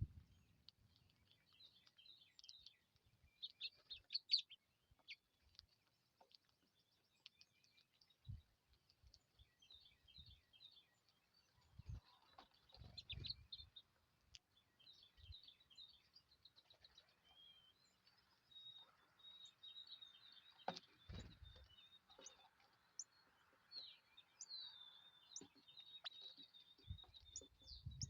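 Small birds chirping and twittering, faint, in many short calls and trills throughout, with a few soft low thumps.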